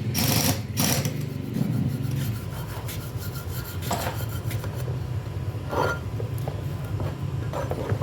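Hand rubbing and scraping on metal parts, with a few light clinks, over a steady low hum.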